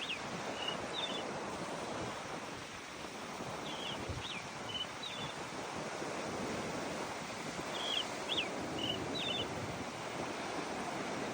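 A small songbird repeating the same short phrase of a few high notes about every four seconds, over a steady rushing noise of wind.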